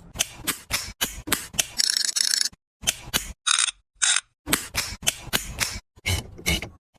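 A rapid series of sharp clicks, about three a second, broken by a few short high chirps near the middle and by sudden gaps of silence.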